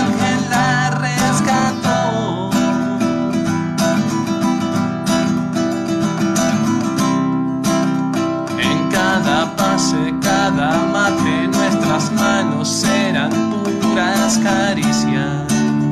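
Acoustic guitar music, strummed and plucked, playing an instrumental passage between sung lines of a song.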